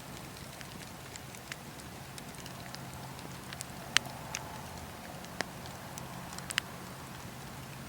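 Campfire burning, wood crackling with scattered sharp pops, the loudest about halfway through, over a steady low rumble of the flames.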